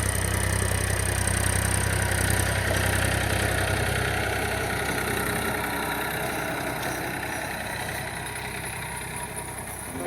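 An engine idling steadily with a low hum, slowly fading.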